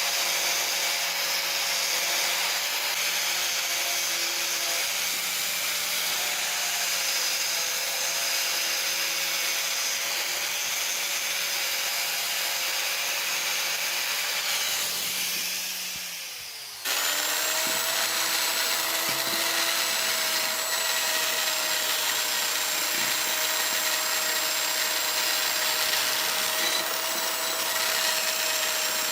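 A power tool's motor running steadily with a high whine. About fifteen seconds in it slows down with falling pitch, then it runs again at full speed.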